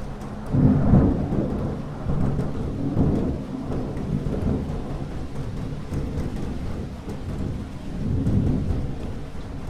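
Thunderstorm: rolling thunder over steady rain. The loudest rumble comes in about half a second in, with further swells around three seconds and eight seconds.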